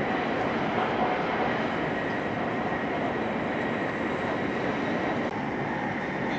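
Hokuriku Shinkansen E7/W7-series train running at speed, heard inside the passenger cabin: a steady rush of wheel, track and air noise with a faint high steady whine.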